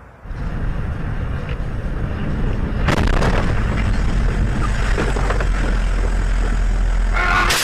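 Loud, dense rumble of a vehicle on the road, starting abruptly, with louder, harsher surges about three seconds in and again near the end.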